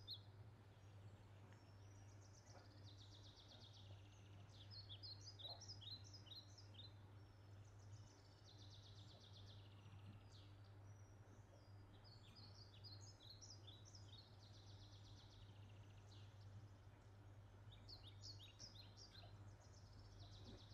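Faint bird chirping: short bursts of quick, high chirps repeating every few seconds, over a low steady hum.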